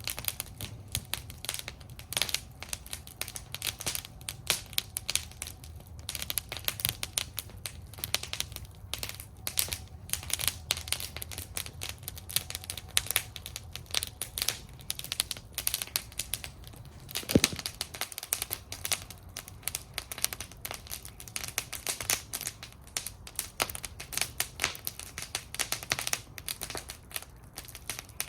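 Wood fire burning in a fire bowl, crackling constantly with irregular snaps and pops over a low steady rumble. One sharper pop comes about two-thirds of the way through.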